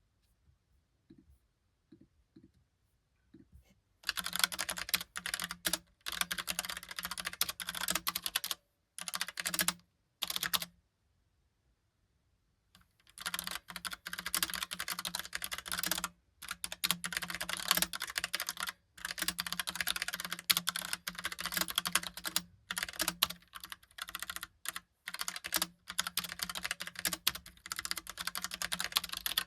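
Rapid typing on a Logitech Pop Keys mechanical keyboard: dense runs of key clicks. A few faint taps come first, the clacking starts about four seconds in, and it stops for a couple of seconds near the middle before carrying on.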